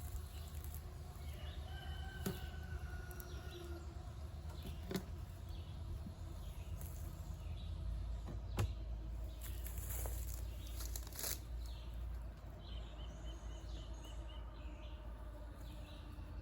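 Honeybees buzzing around an opened hive, under a steady wind rumble on the microphone, with a few sharp knocks from handling the hive.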